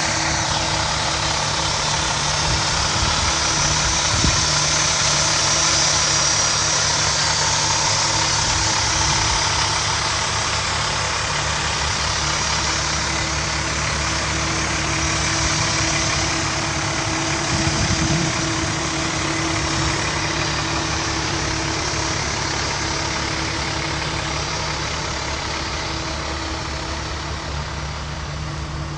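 International 7500 truck's MaxxForce 10 turbo diesel idling steadily.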